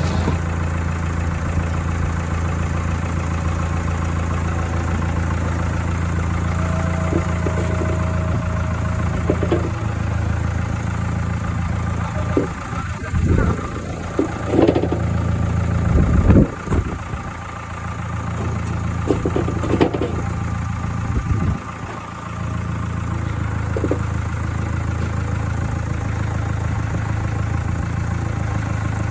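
Tractor engine running steadily, with a few short knocks and clunks partway through.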